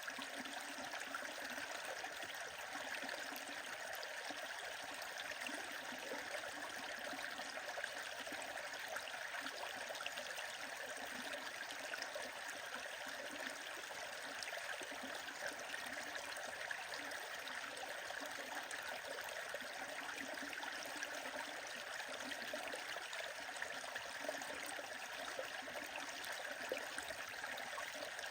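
Stream water running steadily, with small, scattered crackles of a bonfire over it.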